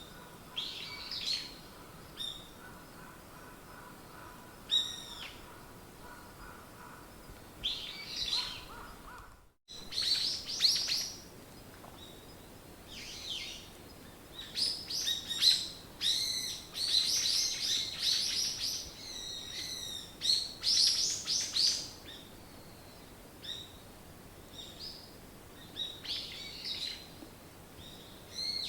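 Several small songbirds chirping and singing in short calls and trills, busiest in the middle stretch. The sound cuts out for a moment about a third of the way in.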